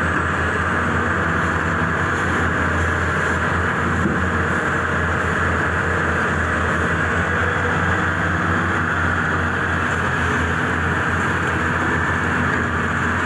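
Large hydraulic excavator's diesel engine running steadily at constant revs, a continuous low hum with no breaks.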